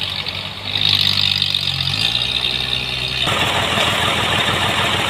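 Sawmill machinery with an engine running. It gets louder under load about a second in, then turns into a harsher, denser noise about three seconds in.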